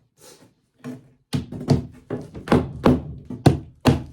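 Hammer pounding on wood: a quick run of about seven blows, two to three a second, starting about a second in.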